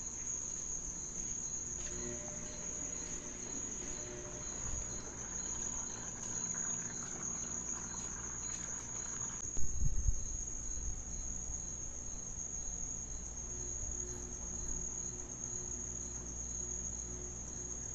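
Crickets chirp steadily, a fast pulsing trill, over the low rumble of a neighbour's washing machine spinning an unbalanced load. About ten seconds in there is a short heavy thud as the machine knocks and shifts.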